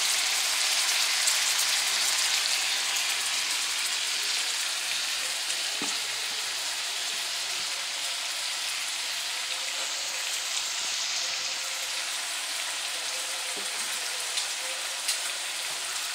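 Crab legs frying in melted butter and seasoning in a wide aluminium skillet: a steady sizzle that grows slightly quieter over the seconds, with a few light clicks near the end.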